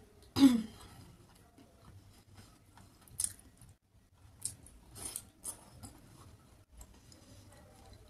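Close-up eating sounds of a person eating fish curry and rice by hand: wet chewing with several sharp lip smacks and clicks. About half a second in there is a brief, loud mouth sound that drops in pitch.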